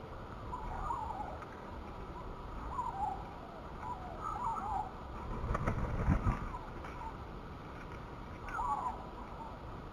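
Sparrows chirping in short, scattered calls over a low, steady background rumble, with a louder low thumping noise a little past the middle.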